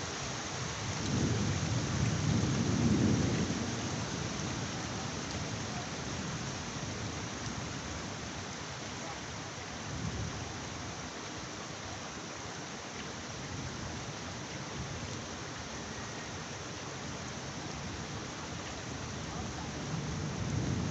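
Heavy rain falling steadily, with a low rumble of thunder swelling about a second in and lasting a few seconds, a brief fainter rumble around ten seconds in, and another starting near the end.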